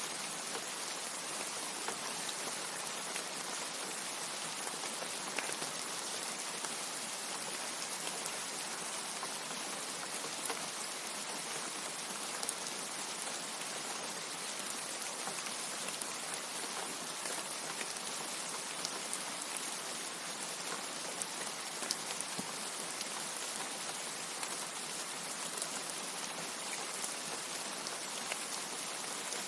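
Steady rain falling: a dense, even hiss with scattered individual drop ticks, without thunder.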